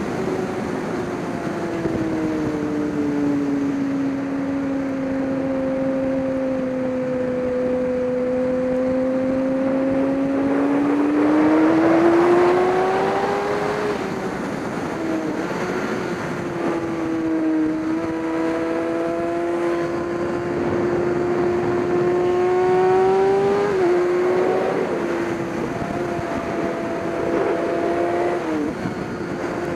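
GT race car engine running hard, its pitch sagging slowly, then climbing and holding, with sudden drops in pitch at gear changes about fourteen, twenty-four and twenty-eight seconds in. A steady hiss runs underneath.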